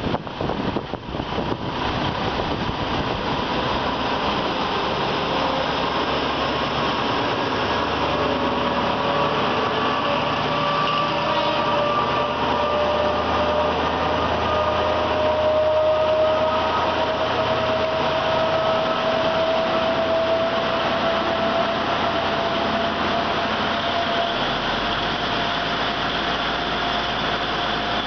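Diesel passenger train running slowly through a station, heard from an open carriage window: a steady engine and rail rumble with a whine that slowly rises in pitch from about a third of the way in.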